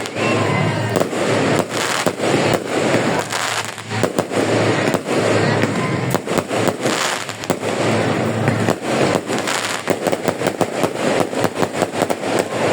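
Fireworks going off in rapid succession, a dense run of bangs and crackling that grows thickest near the end.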